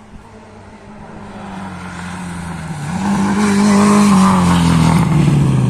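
Rally car approaching and passing close by under power. Its engine grows steadily louder, is loudest about four seconds in, and its note drops in pitch as it goes past.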